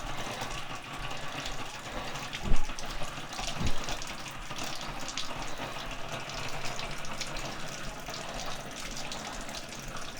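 Water running steadily from an opened tap, bleeding water and air through the tankless water heater's lines after the flush. Two knocks sound about a second apart a couple of seconds in.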